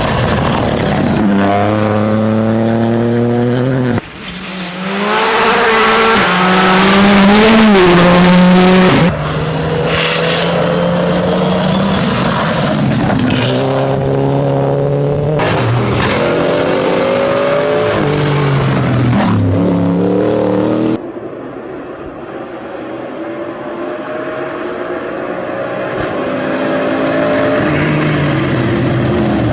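Rally car engines at full throttle, pitch climbing and dropping sharply again and again as they shift up through the gears, in several clips cut abruptly one after another. The loudest, from about five to nine seconds in, is a close pass with a rush of noise over the engine; after about twenty-one seconds a more distant car is heard building speed.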